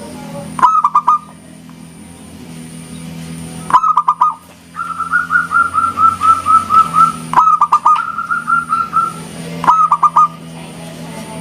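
Zebra dove (perkutut) cooing: short phrases of four or five quick notes recur every few seconds, and two longer runs of rapid, evenly spaced notes fall in the middle.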